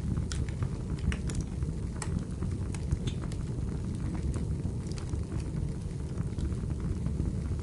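Wood fire burning in a fireplace: a steady low roar of flames with frequent sharp crackles and pops from the burning firewood.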